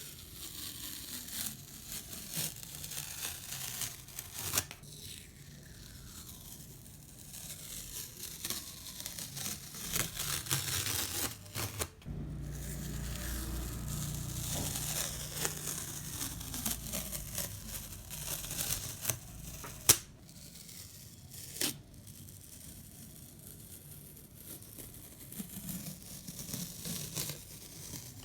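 Masking tape being peeled off the edges of watercolor paper: a drawn-out ripping hiss, broken by sharp clicks as the tape lets go.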